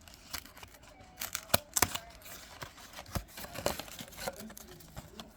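Trading cards being handled: an irregular run of sharp clicks, flicks and light rustles as cards are slid apart and set down, with a few louder snaps about a second and a half in and near the middle.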